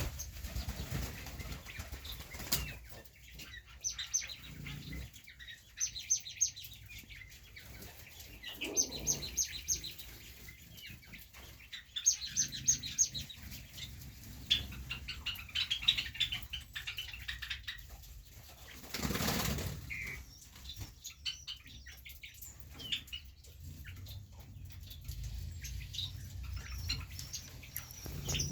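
Pigeons and quail flapping their wings in bursts, the loudest about two-thirds of the way through, with repeated runs of short, high chirps between.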